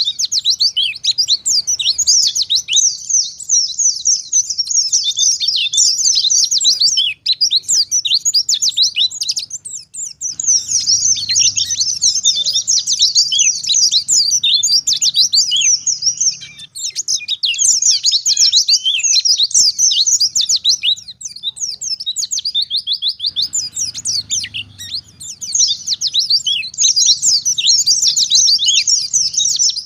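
White-eye (pleci) singing a fast, high twittering song in long unbroken runs, with a few brief pauses.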